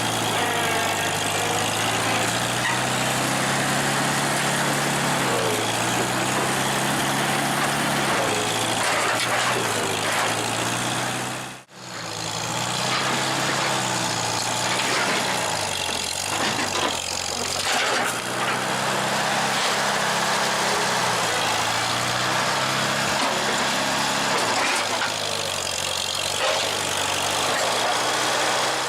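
1949 International W-4 tractor's four-cylinder engine running while working, its pitch sagging and rising with the load. The sound cuts out briefly and suddenly about twelve seconds in, then carries on.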